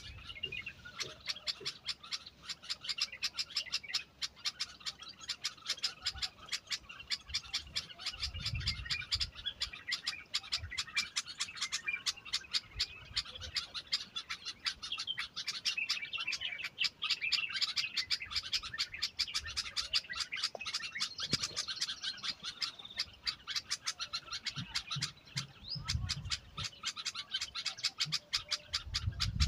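Small birds chirping continuously in rapid, overlapping chirps, with a few dull low thuds about a third of the way in and near the end.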